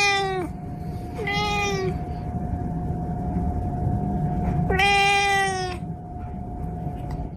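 A domestic cat meowing three times: a long meow that ends about half a second in, a shorter one about a second later, and another long one near the middle. Each meow dips in pitch at its end. A thin steady tone and a low background rumble run underneath.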